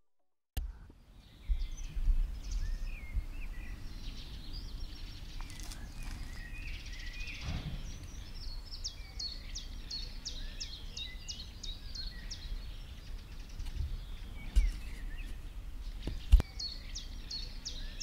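Songbirds singing outdoors, with runs of quick, repeated high chirps over a steady low rumble. Two short knocks near the end.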